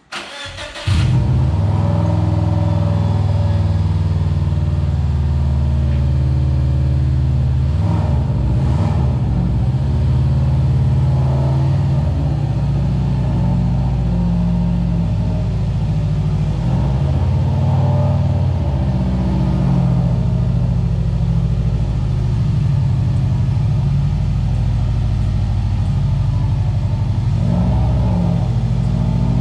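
Turbocharged Subaru Outback XT wagon's flat-four engine, tuned to about 350 horsepower, starting up: a brief crank of about a second before it catches, then running loud and steady at low revs while the car creeps forward.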